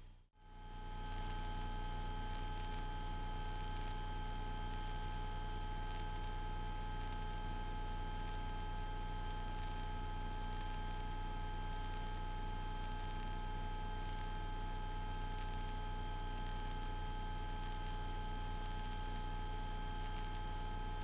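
Steady in-flight drone of a Cessna 172S Skyhawk as picked up through the aircraft's headset intercom, with a constant high-pitched electrical whine over it. It fades in about a second in.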